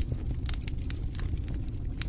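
Campfire crackling, with many quick irregular pops and snaps over a low steady rumble.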